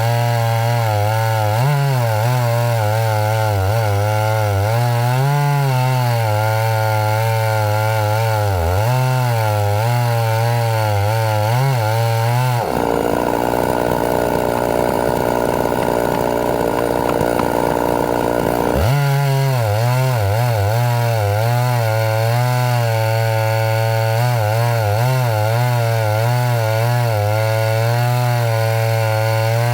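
Chainsaw running under load as it cuts through pine wood, its engine pitch dipping and recovering again and again. For about six seconds in the middle the steady engine tone gives way to a coarser, rougher noise before the wavering tone returns.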